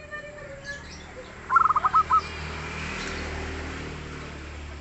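Zebra dove (perkutut) cooing: a quick run of about six short, clipped notes about a second and a half in, over a steady background hiss and hum.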